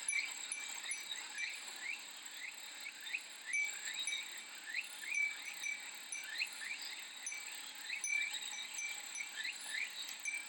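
Summer ambience: cicadas droning high and steady, with light Japanese wind-chime (fūrin) tinkling and many quick, rising chirps in between.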